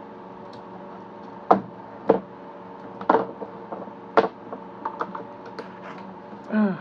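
Sharp knocks and clicks of hard objects being handled on a bench: four louder ones about a second apart, then several lighter ticks, over a steady faint hum. A short vocal sound falling in pitch near the end.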